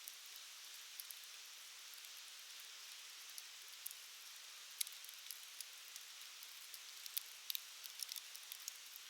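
Campfire burning: a steady soft hiss with sharp crackles and pops, scattered at first and coming thicker in the second half.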